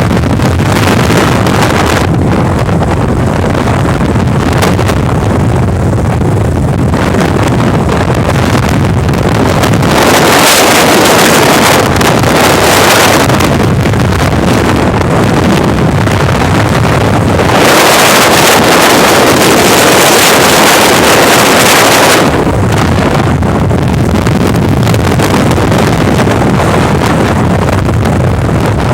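Loud wind noise buffeting the microphone over a steady low rumble, turning harsher and hissier about ten seconds in and again from about eighteen to twenty-two seconds.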